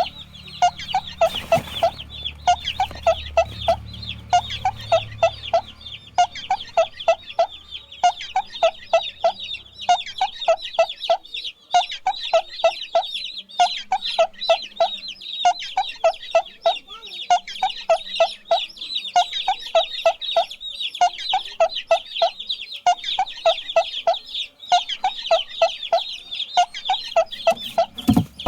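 Chickens clucking in quick runs of short notes that repeat every second or so, over a continuous stream of high, rapid peeping from chicks.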